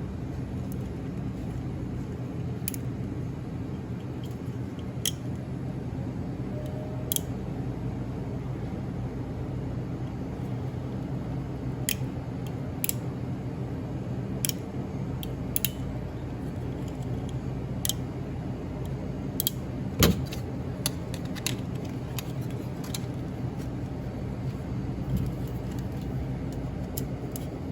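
Scattered small metal clicks and clinks of tools and parts being handled during a refrigeration controller repair, with one sharper knock about twenty seconds in, over a steady low hum.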